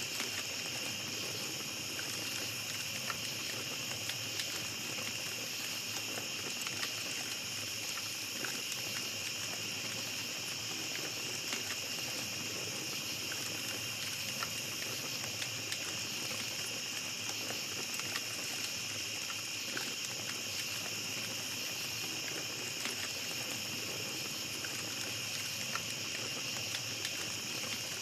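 Small campfire crackling with scattered small pops and a soft hiss, over a steady high chorus of night insects.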